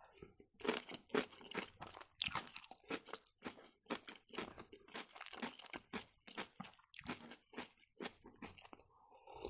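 Close-miked chewing of a mouthful of napa cabbage kimchi, with crisp, wet crunches about two or three times a second. Near the end, a quieter sip from a cup of tea.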